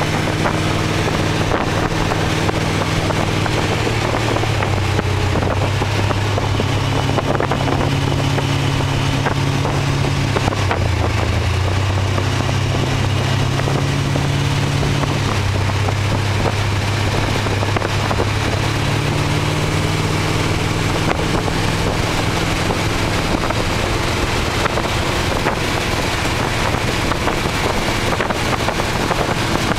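Model A Ford hot rod roadster's engine running steadily while driving, with wind rushing over the microphone of the open car. The engine note drops about a third of the way through and changes again a few seconds later as the speed changes.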